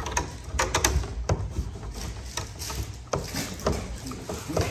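Irregular clicks and light knocks of small hard parts being handled and shifted about, as someone rummages through a supply of electrical fittings looking for a square one.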